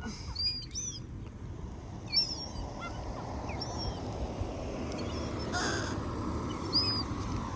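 Small birds, likely sparrows, chirping repeatedly in short high notes. A crow gives one harsh caw a little past the middle. A steady low background rumble runs underneath.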